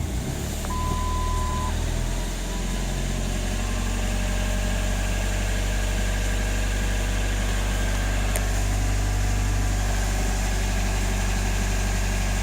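Ford Focus Mk1 1.6 16V four-cylinder petrol engine idling steadily just after a cold start at −5 °C; its note shifts about two seconds in, then holds. A short steady beep sounds about a second in.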